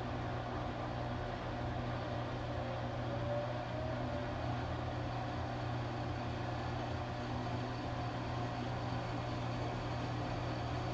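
Washing machine running with a steady low motor hum and a faint whine that rises briefly a few seconds in.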